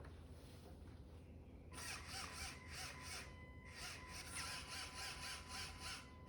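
Electric motors of the LEGO Technic Liebherr R9800 excavator model running its functions: a steady whine over a fast, uneven gear noise. It starts about two seconds in, stops briefly near the middle, then runs on.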